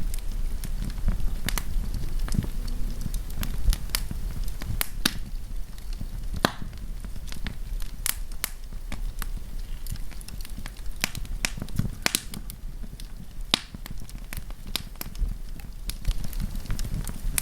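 Wood fire burning with irregular sharp crackles and pops over a low rumble from the flames.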